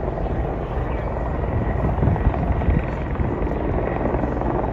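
Helicopter rotor and engine noise: a steady low drone with a faint high whine.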